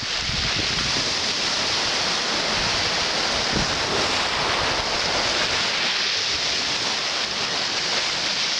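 Black Sea surf in a storm, a steady rush of waves breaking and washing onto the beach, with wind buffeting the microphone in a few low gusts near the start.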